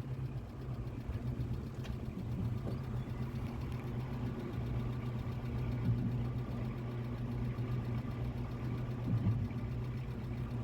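A vehicle engine running steadily at low revs, a constant low hum.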